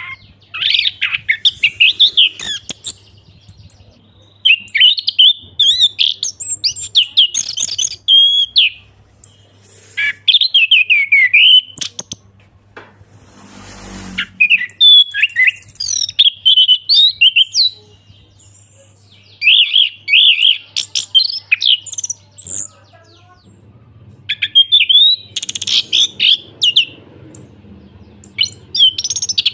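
Chestnut-capped thrush (anis kembang) singing in repeated phrases of quick, varied whistles and trills, each phrase a second or two long with short pauses between.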